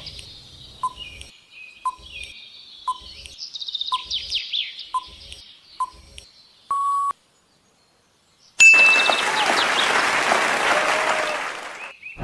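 Quiz-timer sound effects: a countdown ticking about once a second over high bird-like chirps, then a single beep about seven seconds in. After a short silence comes a loud rush of applause-like noise lasting about three seconds.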